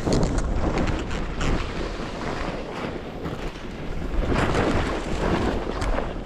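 Edges scraping and sliding over hard, bumpy snow on a descent, in uneven surges, mixed with wind buffeting the microphone.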